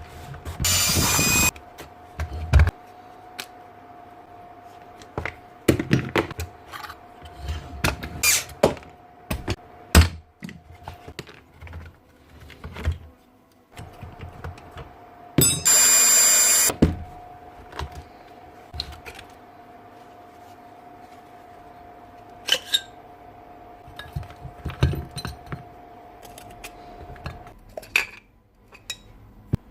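Parts of a Tjep gas nailer being handled and worked on by hand: scattered clicks, knocks and thunks, with two loud hissing blasts about a second long, one near the start and one about halfway. A faint steady tone runs under most of it.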